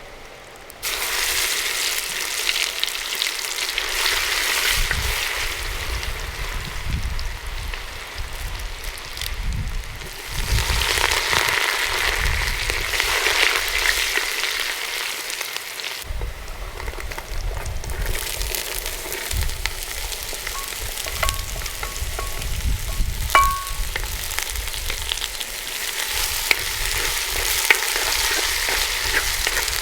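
Food frying in hot oil, sizzling steadily, with the knocks of stirring in the pan.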